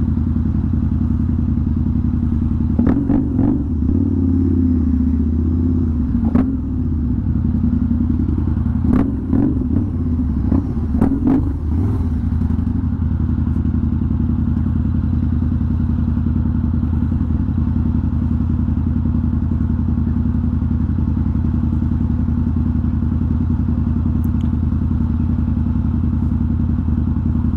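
Harley-Davidson Night Rod's liquid-cooled V-twin engine heard from the saddle. A few short knocks and an uneven engine note come in the first half, then it runs at a steady idle.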